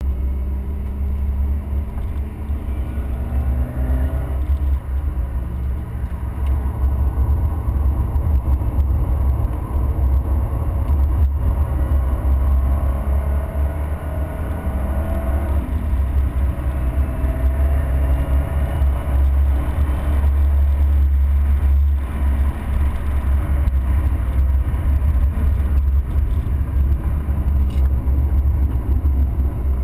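Car engine running hard at track speed, its revs rising and falling through the gears and corners, over a heavy low rumble.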